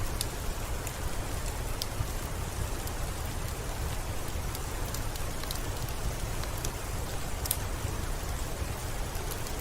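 Steady rainfall with a low rumble underneath and scattered sharp high clicks throughout.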